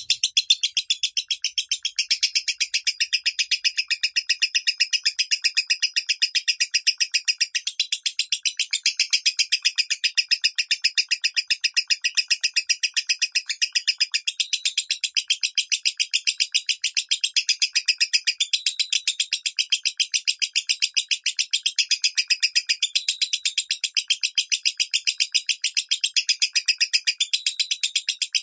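Lovebird chattering in the fine 'minor' voice: a continuous, rapid run of high chirps, many per second, with no pause.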